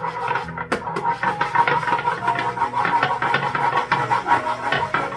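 Rapid, continuous tapping and rattling, a child imitating the sound of a rainstorm with a handheld object, over background music.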